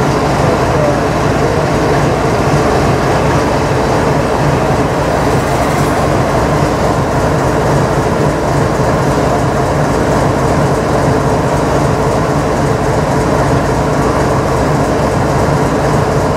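BNSF diesel-electric freight locomotives working as a double-stack intermodal train pulls slowly away. There is a steady, even engine drone throughout.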